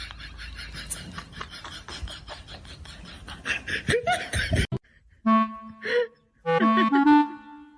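Noisy clip audio with a rapid pulsing texture cuts off abruptly, and a moment later a woodwind melody like a clarinet begins, playing short phrases of held notes.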